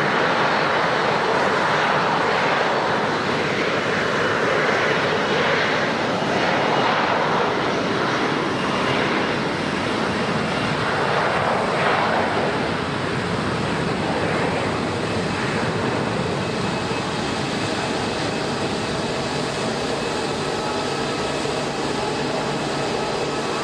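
Airliner engines passing close: a loud, steady rushing noise that eases somewhat about halfway through.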